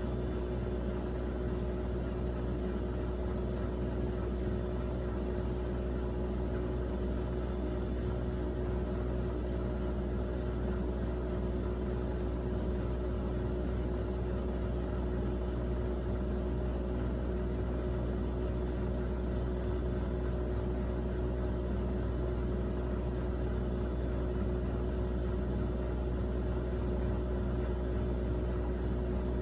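Miele Navitronic W3985 WPS washing machine running steadily on its Express 40° programme, a constant motor whine over a low hum with no pauses.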